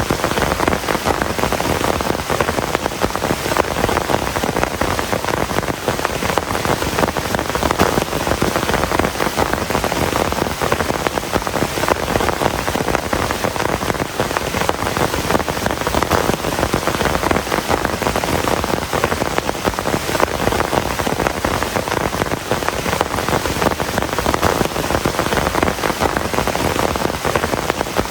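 Heavy rain falling steadily, a dense even patter of drops with no thunderclaps.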